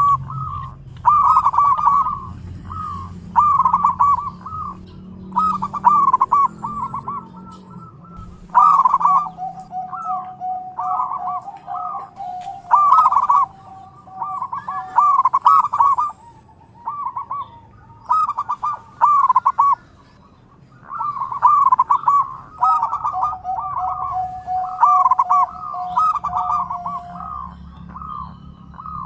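Zebra dove (perkutut) song: phrase after phrase of quick rolling coos, repeated every second or two with short pauses, at times over a held lower note.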